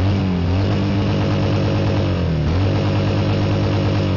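V-twin cruiser motorcycle engine revved hard and held at high revs for a decibel measurement, dropping briefly about two and a half seconds in before being held high again, then falling off near the end.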